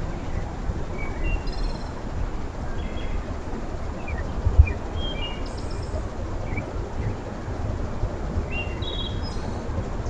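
Small birds at a backyard feeder giving many short, scattered chirps over a steady low rumble, with one louder thump about four and a half seconds in.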